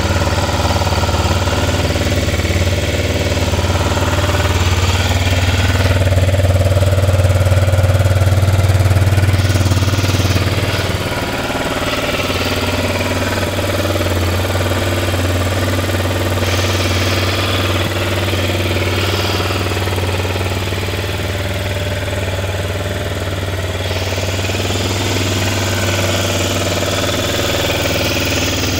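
BMW F650 Funduro's single-cylinder Rotax engine idling steadily, a little louder for a few seconds before settling back about eleven seconds in.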